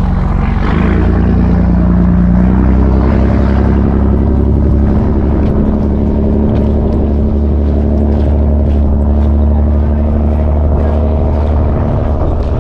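An engine running steadily; its pitch steps up slightly about a second in, then holds.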